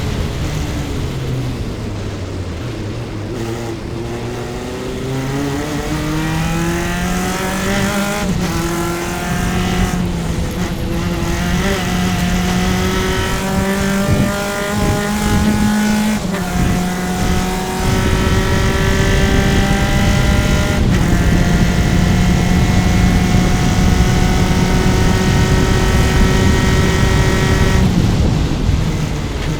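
Single-seater race car's engine recorded onboard at racing speed. It slows at the start, then climbs in pitch through the gears with several quick upshifts, holds a long pull at high revs, and drops again near the end as the driver lifts.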